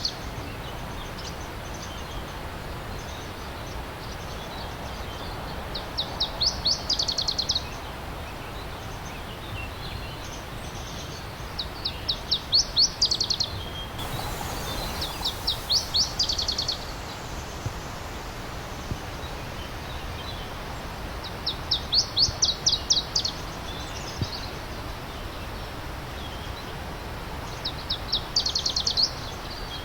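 A songbird singing short phrases of quick high repeated notes, five phrases spaced several seconds apart, over the steady rush of a flowing stream.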